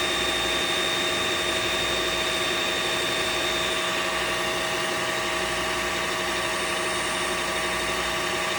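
Riccar R70 wet-dry floor washer running its drying cycle after self-cleaning: a steady motor whir with several fixed whining pitches that holds without change.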